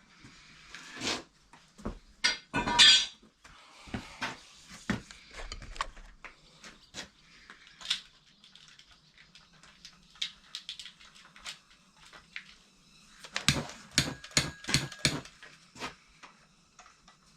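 Metal knocks and clanks from mower blades and tools being handled on a bench, then a quick run of about seven sharp strikes a little past the middle.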